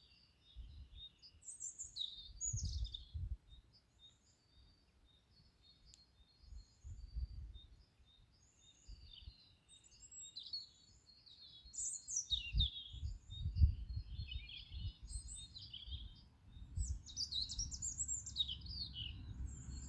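Several small birds chirping and singing: short repeated chirps and trills throughout, busiest in the second half. Intermittent low rumbling noise comes and goes beneath them.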